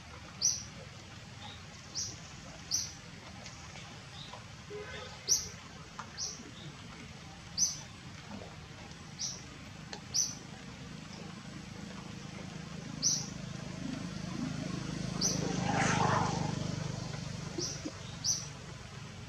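A small bird chirping repeatedly: short, high chirps about every second, over a steady outdoor background. About two-thirds of the way in, a rushing noise swells up, peaks and fades.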